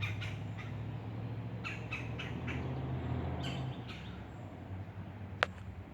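Birds calling outdoors: a few short calls in quick runs, over a steady low hum that fades about four seconds in. A single sharp click comes near the end.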